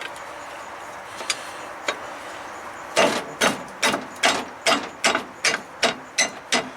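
Repeated sharp knocks, about two and a half a second, beginning about three seconds in after a couple of lone clicks: a tool striking at a stuck part during truck repair work.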